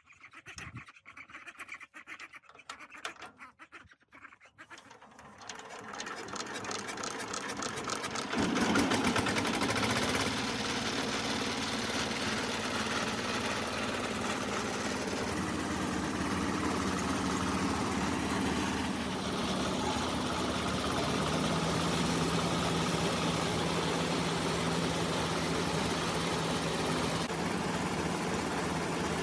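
Restored rice-mill diesel engine starting up: slow, uneven knocks that quicken and grow louder over the first several seconds, then it catches and runs steadily at a constant speed.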